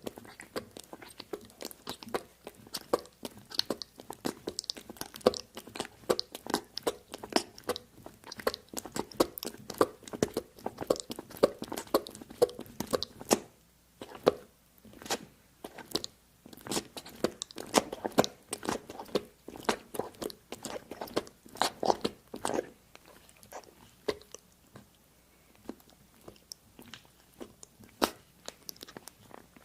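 Close-miked crunching and chewing of crisp food, a dense run of crackles and bites. There is a short pause about halfway through, and the sound turns sparser and quieter near the end.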